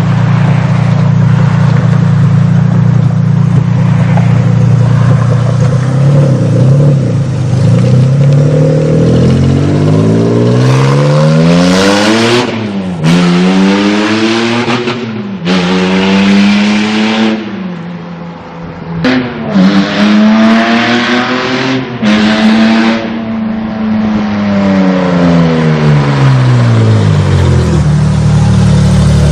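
Car engine idling, then accelerating hard, its pitch climbing and dropping sharply several times as it shifts up through the gears, before it slows back down to idle near the end.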